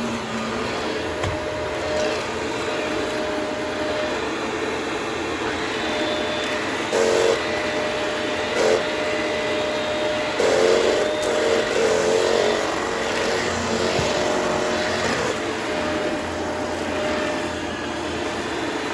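Vacuum cleaner running steadily, with several brief louder surges between about seven and thirteen seconds in.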